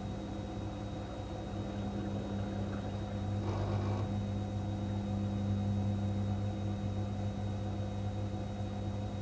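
Electrolux washing machine running with a steady low motor hum, and a short swishing burst about three and a half seconds in.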